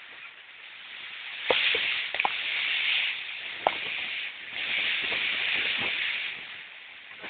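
Storm arriving: a noisy rush of wind and rain that swells and eases in two long surges, with scattered sharp clicks and knocks.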